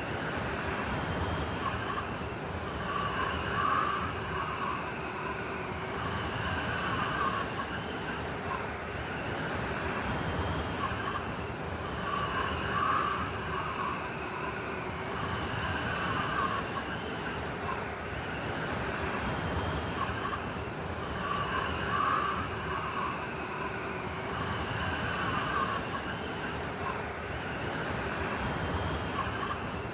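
Blizzard wind blowing steadily, with whistling gusts that swell and fade every few seconds.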